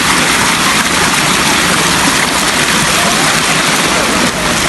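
Mountain stream rushing, a loud and steady hiss of water.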